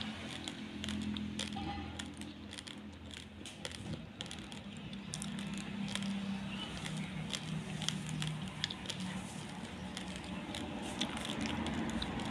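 Crunching of raw basmati rice grains being chewed, with many sharp, irregular cracks as the hard grains break between the teeth. A low steady hum sits underneath.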